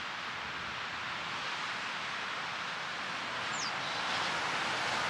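Steady rushing outdoor noise, growing slightly louder, with one short high chirp falling in pitch about three and a half seconds in.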